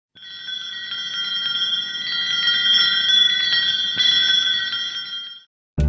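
Shimmering chime or bell tones, several high notes held together with light tinkling strikes through them. They fade in at the start and fade out shortly before the end.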